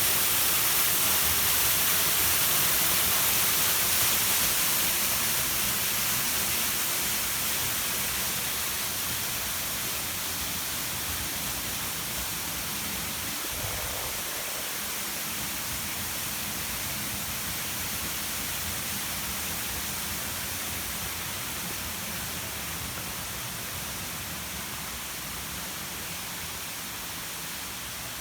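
Ayahiro Falls waterfall: a steady rush of falling water that slowly grows quieter from about four seconds in.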